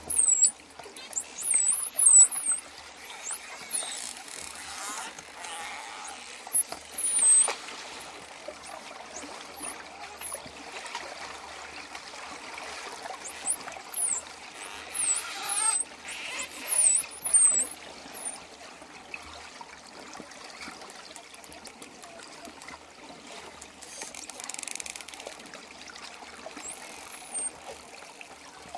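Dolphins whistling underwater: many quick, high whistles sweeping up and down, thickest in the first half, with a run of rapid clicks later on, over a steady wash of water.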